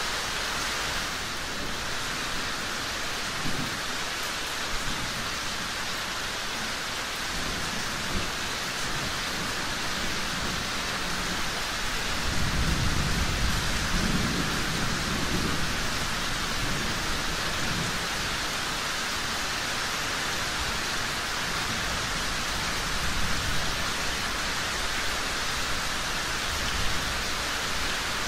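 Steady rain falling, with a low rumble of distant thunder swelling about halfway through.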